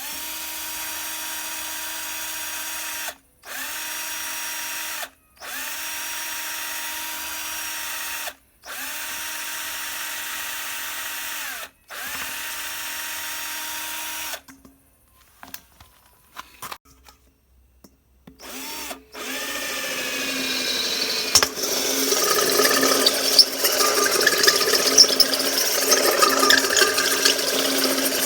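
Electric drill running in five short bursts of two to three seconds, spinning up and winding down each time. After a pause it runs for about nine seconds, louder and rougher, as when drilling into the workpiece.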